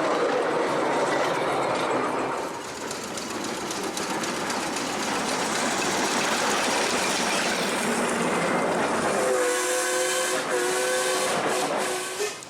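Steam locomotive running with a steady hiss of steam, then sounding its whistle about nine seconds in: a two-note chord held for about three seconds with a couple of short breaks, cutting off sharply.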